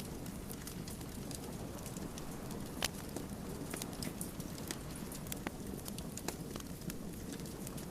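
Wood fire burning with a steady low rumble and irregular sharp crackles and pops of the burning logs, one louder pop just under three seconds in.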